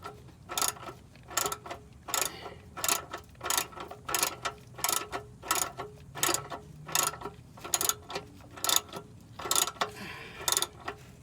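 Ratchet wrench being worked in short, steady strokes, giving a sharp metallic click about every two-thirds of a second.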